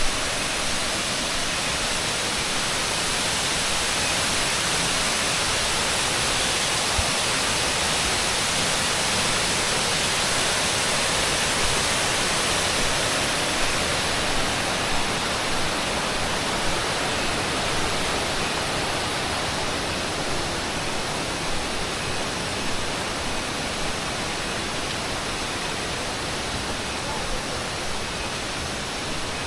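Steady rush of a waterfall's falling water, swelling slightly and then easing, with a few light knocks over it.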